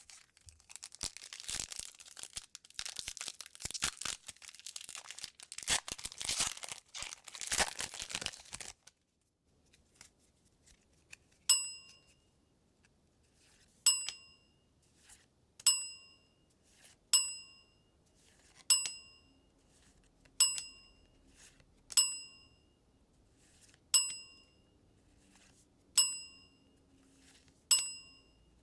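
A foil trading-card booster pack wrapper is torn open and crinkled for about the first nine seconds. After a short pause a bright chime rings about a dozen times, roughly every one and a half to two seconds, each ring dying away quickly.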